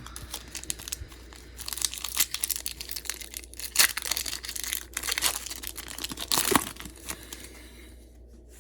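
Foil Pokémon booster pack wrapper crinkling and tearing as it is opened, with several sharper rips between about 1.5 and 7 seconds in, then dying away.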